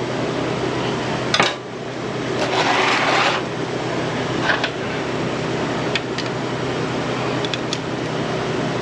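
Tools and motorcycle parts being handled over a steady fan hum: a sharp metallic click about a second and a half in, a brief scraping rustle a little later, then a few light clinks and ticks.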